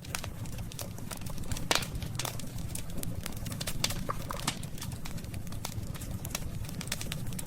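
Wood fire crackling: irregular sharp pops and snaps, several a second, over a steady low rumble of flames. A few faint short hisses come from the burning wood about four seconds in.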